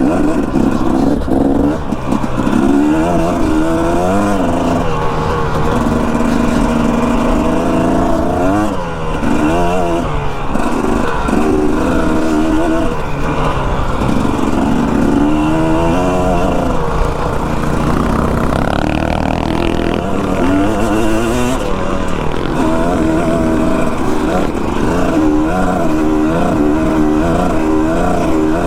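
Dirt bike engine running under way, its revs rising and falling over and over as the rider works the throttle.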